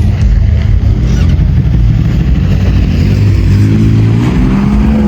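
A vehicle engine running and revving, its pitch climbing in the second half and dropping back near the end.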